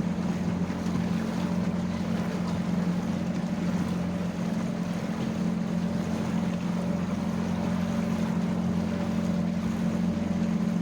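A small boat's motor running steadily at slow cruising speed, a constant low hum, with wind and water noise around it.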